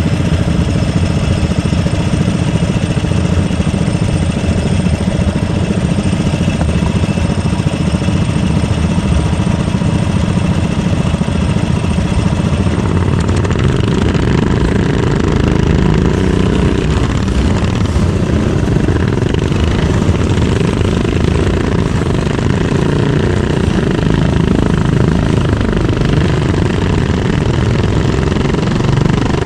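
Kart engine running, recorded by a camera mounted on the kart. About 13 seconds in, the steady engine tone gives way to a rougher, heavier rumble.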